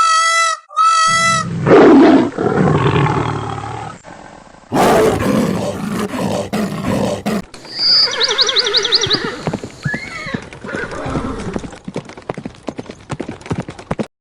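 Animal calls in a run of short clips that cut abruptly from one to the next. Two short pitched calls come at the start, then noisier animal sounds follow, with a rapid high trill about eight seconds in.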